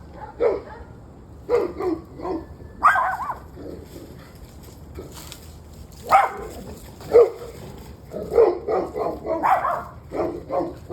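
A dog barking repeatedly in short clusters, with a quick run of barks in the last few seconds. It has been barking on and off for about an hour and a half.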